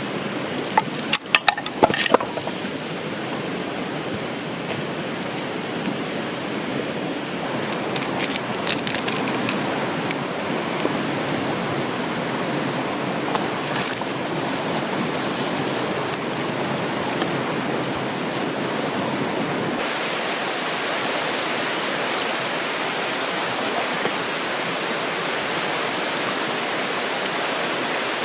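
Steady rush of a flowing river, with a few sharp clicks and knocks about a second in.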